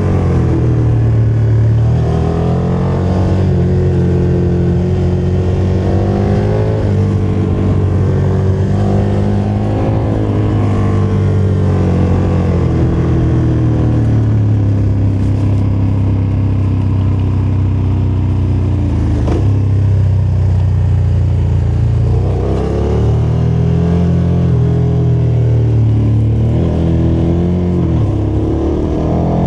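KTM motorcycle engine running under way, its pitch rising and falling again and again as the throttle opens and closes, with a steadier stretch in the middle.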